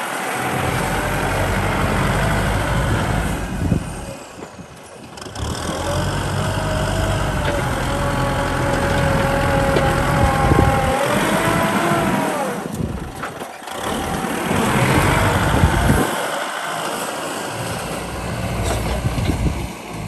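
Kubota M6040 tractor's diesel engine running under work, with a high whine that wavers in pitch through the middle. The engine sound dips briefly a few times.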